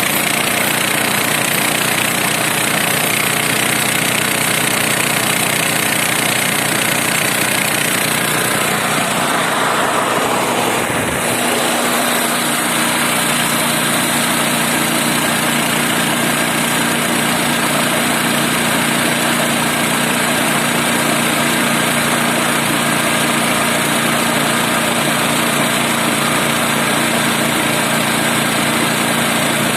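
Snowblower's small engine running steadily. About ten seconds in its pitch glides down and it settles into a lower steady note for the rest of the time.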